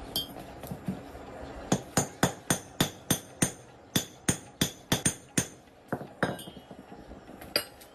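A hammer striking metal in a quick, steady series of about a dozen ringing blows, roughly three a second, followed by a few scattered strikes near the end.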